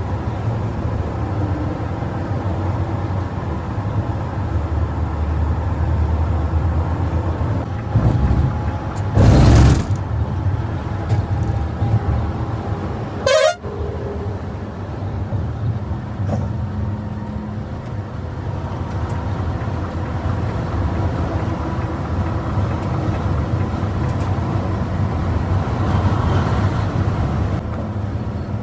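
Heavy bus engine and road noise at highway speed, with horn honking, a loud burst about nine seconds in and a brief sweeping sound about thirteen seconds in.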